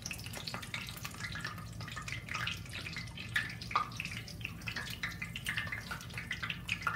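Mackerel patties sizzling in hot vegetable oil in a cast-iron skillet, a steady dense crackle of small pops.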